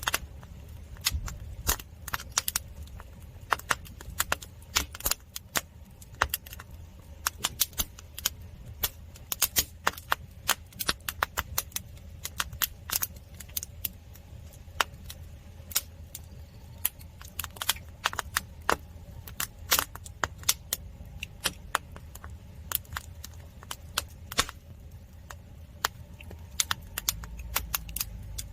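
Firewood burning in a traditional Korean agungi fire hole, crackling and popping at irregular moments over a steady low rumble that grows louder near the end.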